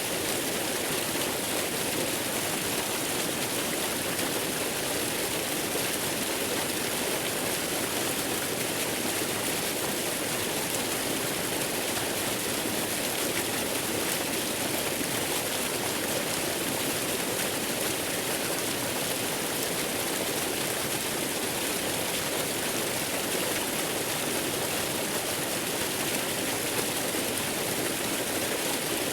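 Steady rushing of a waterfall blended with white noise, an even hiss with no change or break.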